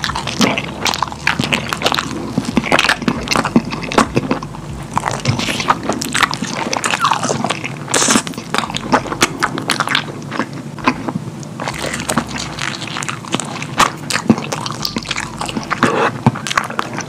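A person biting and chewing a cheese-smothered baked dish, with irregular crisp clicks and wet mouth sounds throughout.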